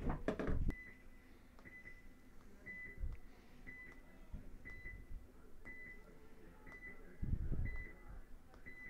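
Short, high electronic beeps repeating about once a second, nine in all: a game-clock countdown to the start of the point. Faint low thumps come in at the start and again around seven seconds in.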